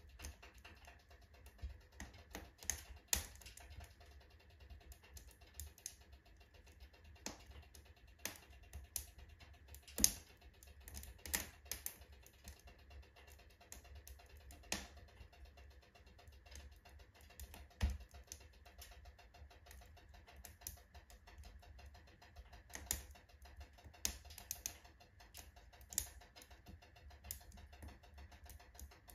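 Firewood burning in a wood stove's full firebox, crackling with irregular small pops and a few louder snaps, faint overall.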